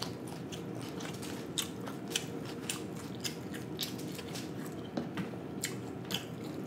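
A person chewing a mouthful of fried snapper: wet mouth sounds with irregular sharp clicks, a few a second.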